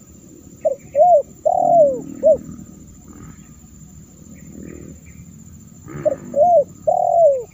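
Spotted dove cooing: two phrases of about four notes each, one about a second in and another near the end, each with a longer falling note near its close. The calls are a lure recording for attracting wild spotted doves.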